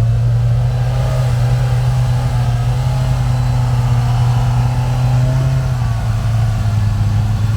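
Side-by-side UTV engine running steadily at a low idle, its pitch dipping slightly about six seconds in.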